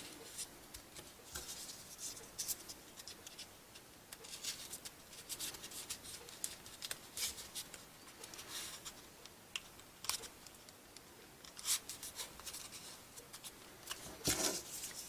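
Folded paper pieces of a modular 3D origami model rustling and clicking as they are pushed into place: short, scattered crinkles and scrapes, with a louder cluster near the end.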